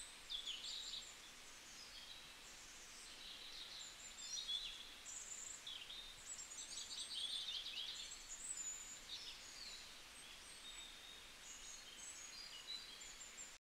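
Several songbirds chirping and trilling in overlapping calls over a faint, steady hiss of outdoor ambience.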